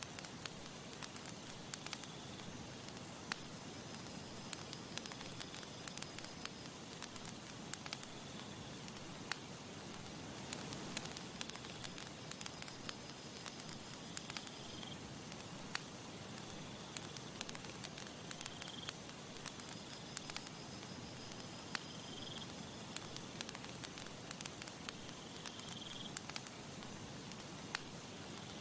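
Wood campfire crackling, with irregular sharp snaps and pops over a steady soft hiss.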